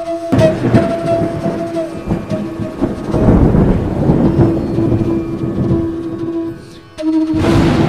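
Thunder rumbling under a bansuri flute holding one steady note. The rumble swells about three seconds in, dies away near the end, and a fresh burst of thunder breaks in just before the end.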